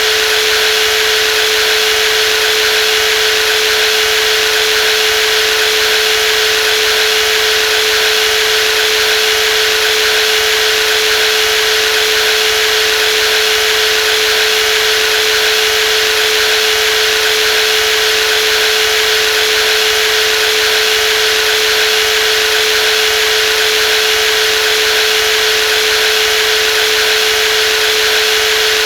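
Brushless jigsaw running steadily without a break, a constant high motor whine over a rushing noise.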